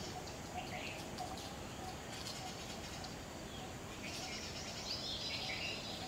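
Wild birds calling: scattered short high chirps, with a longer call that falls away about four to five seconds in, over steady faint outdoor background noise.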